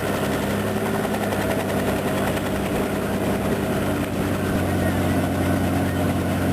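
Robinson R44 helicopter's piston engine and rotor running, a steady low drone whose low tone shifts about four and a half seconds in.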